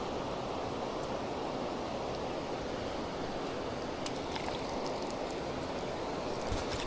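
Steady rushing of water pouring over a weir, an even hiss without breaks. A few faint clicks come in from about four seconds in.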